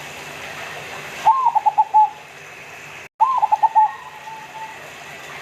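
Zebra dove (perkutut) cooing: two short song phrases, each an arched opening note followed by a quick run of short coos.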